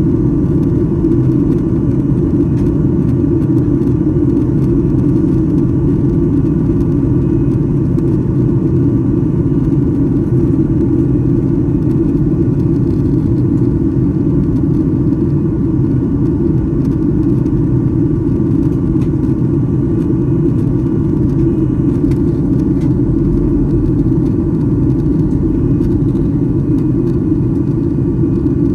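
Steady, loud cabin rumble of a Boeing 737-800 airliner in flight: engine and airflow noise heard from inside the passenger cabin.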